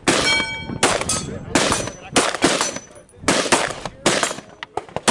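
Gunfire on an outdoor range: about nine shots at uneven spacing, some overlapping, from more than one firearm firing at once. A brief metallic ringing follows the first shot.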